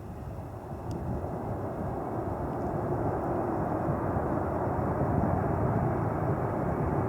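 Jet airliner's engines rumbling and growing steadily louder as the aircraft approaches.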